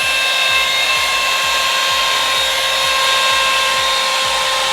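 Revlon One-Step hair dryer brush running steadily, a loud rush of air with a steady motor whine.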